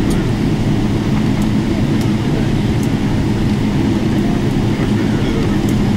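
Steady low droning cabin noise inside a Boeing 777-300ER on the ground after landing, its engines running at idle, with a few faint clicks.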